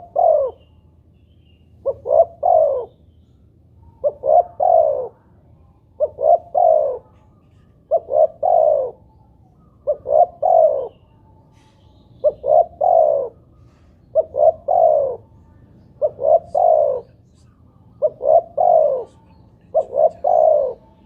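Spotted dove (tekukur) cooing its three-note call, two short coos and a longer coo that falls in pitch, repeated steadily about every two seconds.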